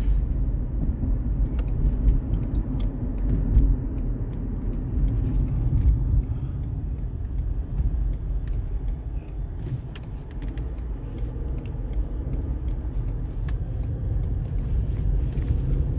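Inside a moving car: a steady low rumble of engine and road noise, with a few faint clicks.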